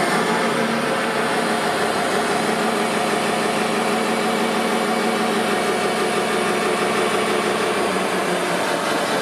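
Remote-control construction vehicle running steadily: a continuous mechanical engine-like drone with a low hum through the middle.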